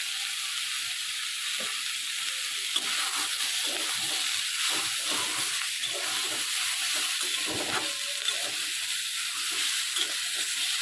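Soya chunks, green capsicum and tomato frying in a metal kadai with a steady sizzle, stirred with a steel spatula that scrapes across the pan in irregular strokes.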